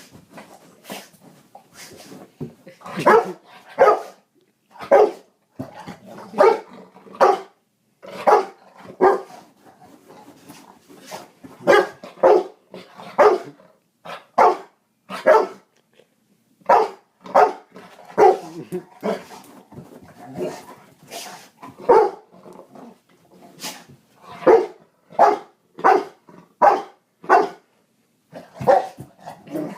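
Dog barking in short, loud barks, singly and in pairs, roughly once a second, with a couple of brief pauses. The dog is barking at a dropped padlock it is chasing.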